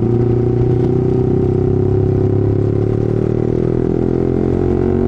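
Yamaha R15's single-cylinder engine running under way at steady revs, its pitch easing slightly lower.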